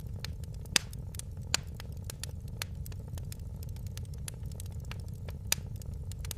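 Wood fire crackling in a fireplace: a steady low rumble of flames with scattered sharp pops and snaps, the loudest about a second in, just after one and a half seconds, and again near the end.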